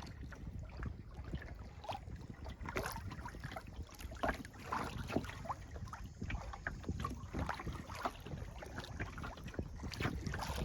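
Kayak paddle strokes dipping and splashing in lake water at an irregular pace, with low wind rumble on the microphone.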